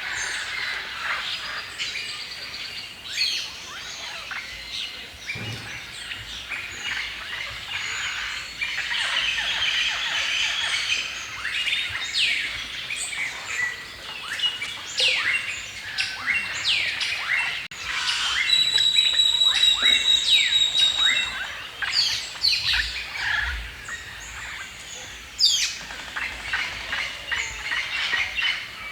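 A dense chorus of songbirds chirping and singing, with many quick sharp notes overlapping. About two-thirds of the way in, one bird holds a rapid, high, evenly pulsed trill for a couple of seconds, the loudest part.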